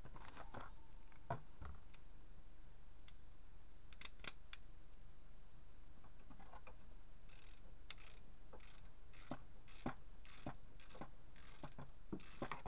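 Light metal clicks and taps from a brake caliper being wiggled on its bracket while its bolt hole is lined up. A few scattered clicks come first, then a quicker run of clicks, two or three a second, in the second half.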